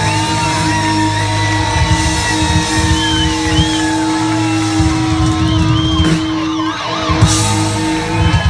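Live rock band playing, with a lead line of long held notes that bend and waver in pitch over a steady beat.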